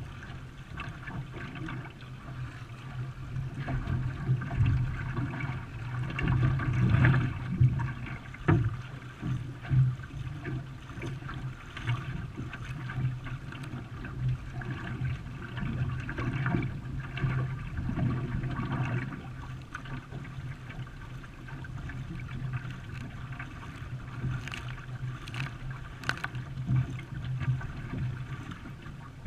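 Water sounds from a canoe under way: paddle strokes and water splashing and gurgling along the hull, louder for a few seconds about five seconds in and again past the middle, over a steady low hum.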